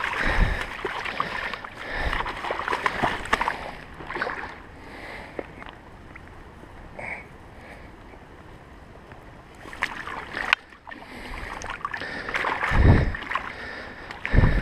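Shallow stream water splashing and sloshing, with irregular knocks and rustles close to the microphone, louder in surges about two seconds in, around ten seconds and near the end, where the sound cuts off suddenly.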